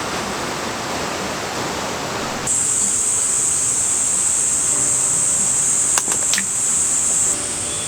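Rain hissing steadily for about two and a half seconds, then a sudden switch to cicadas buzzing in one high, steady drone. A few sharp clicks come about six seconds in, and the drone drops lower shortly before the end.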